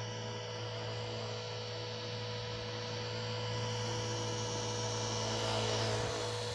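WLtoys V950 RC helicopter's electric motor and rotors running in flight: a steady low rotor hum under a high motor whine. It gets louder and the whine rises and then falls about five to six seconds in.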